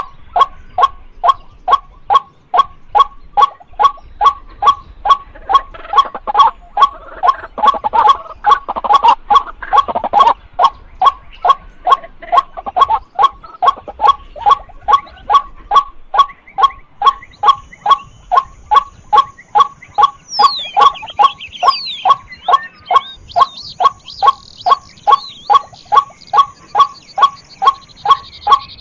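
White-breasted waterhen calling a steady, unbroken series of short repeated "kwak" notes, about two to three a second. Extra overlapping calls thicken the series between about six and ten seconds in.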